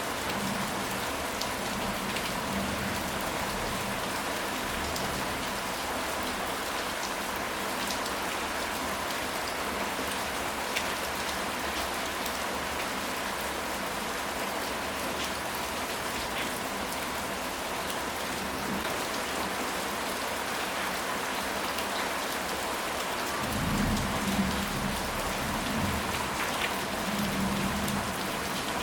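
Steady rain falling, with individual drops ticking through it. A low rumble of distant thunder swells near the end.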